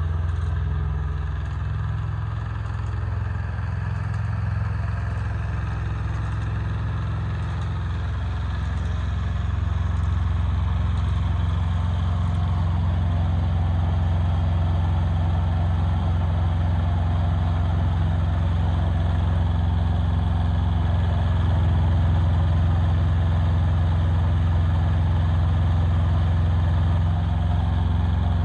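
Yanmar YM146 compact tractor's diesel engine running steadily, a little louder from about ten seconds in.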